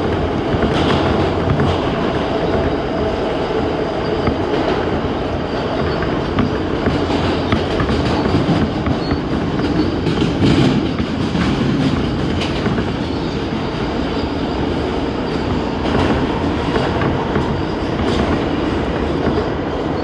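New York City subway A express train running at speed: a steady rumble with irregular clicks from the wheels passing over rail joints.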